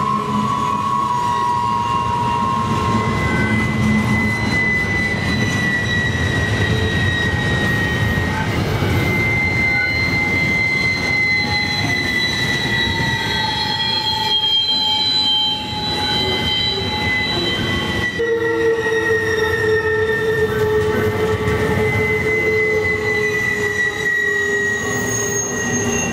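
Double-stack container train's cars rolling steadily over a steel bridge on a curve, a constant rumble under long, drawn-out wheel squeal in several pitches that slowly drift and overlap: steel wheel flanges grinding against the rail through the curve.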